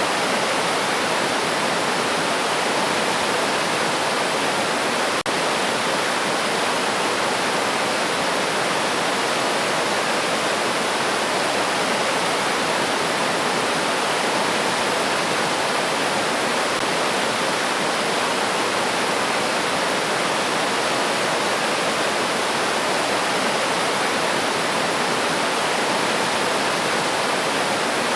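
River water rushing over rocks in a steady, dense flow, with a very brief dip in the sound about five seconds in.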